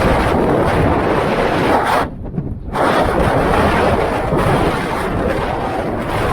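Strong blizzard wind buffeting the microphone as a loud, steady rush and rumble. Its upper part drops out for about half a second, a little after two seconds in.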